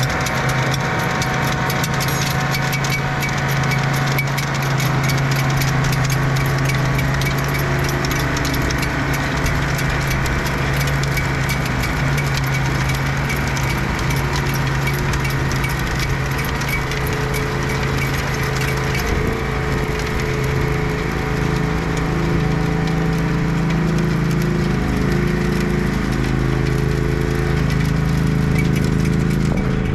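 Compact tractor engine running steadily under load, driving a rotary tiller, with a dense rattle over the engine note.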